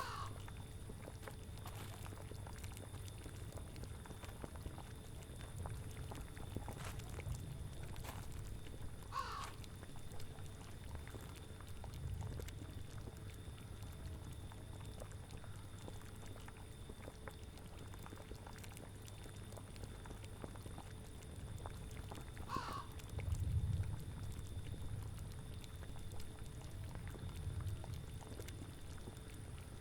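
Boiling cauldron bubbling low under a steady rumble of wind. Three times a short animal call falls in pitch: near the start, about nine seconds in, and about twenty-three seconds in.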